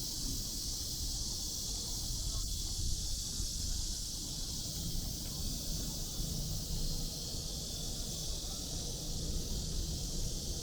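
Steady high-pitched insect chorus, with a low rumble of distant city traffic beneath it.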